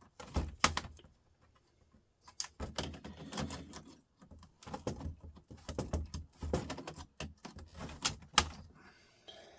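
Irregular clicks and knocks of hand tools and screws against a laptop's plastic and metal case during disassembly, at the screws beside the VGA connector, pausing briefly about a second in and then clicking busily, with the loudest knocks near the end.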